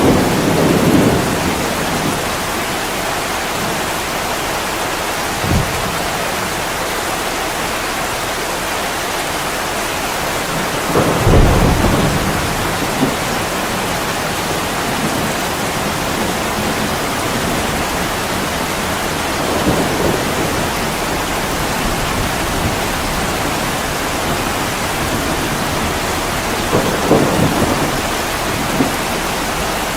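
Heavy rain falling steadily on a window, with a few brief low rumbles rising out of it every several seconds.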